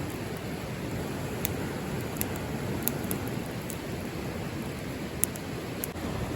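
Wood fire burning in a fire pit: a steady low rush with scattered sharp crackles and pops, one louder pop about five seconds in.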